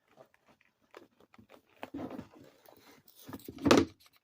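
Packaging being handled by hand, with small rustles and clicks throughout. There is a louder patch of handling about two seconds in and a single louder knock near the end.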